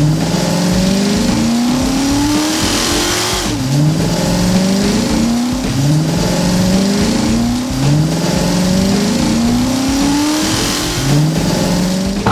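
Vehicle engine sound effect accelerating hard. Its pitch climbs and drops back about six times, like an engine shifting up through the gears, over a steady rushing noise.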